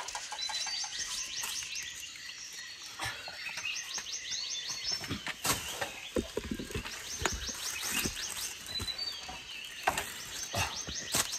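A bird's high trill of rapid, evenly spaced notes, about a second long, repeated several times, over sharp snaps and crackles of dry twigs and leaves as someone crawls through brush; the loudest snaps come near the end.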